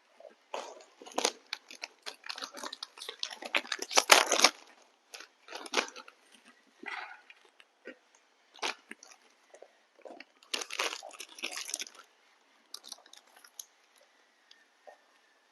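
Dogs crunching and chewing a crunchy treat, in bursts of crackly bites; the loudest burst is about four seconds in, and another comes near the eleven-second mark.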